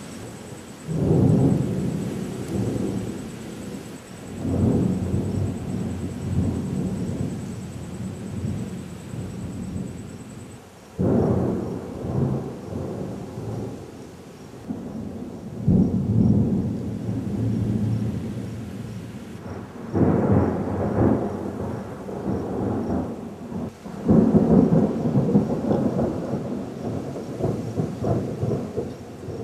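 Monsoon thunder slowed to one-quarter speed: about six sudden crashes, each trailing off into a deep, drawn-out rumble over a few seconds.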